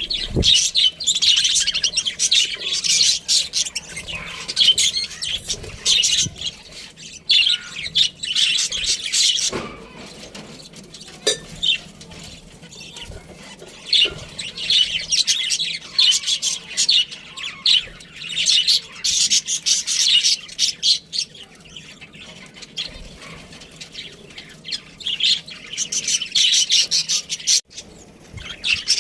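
Budgie (budgerigar) chirping and twittering in quick, high runs, with a couple of quieter stretches.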